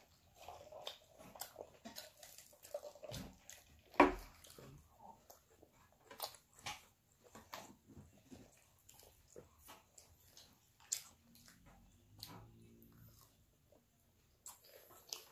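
Close-up eating sounds: chewing, with small scattered clicks of a metal fork in a plastic salad bowl. A single sharp knock about four seconds in is the loudest sound.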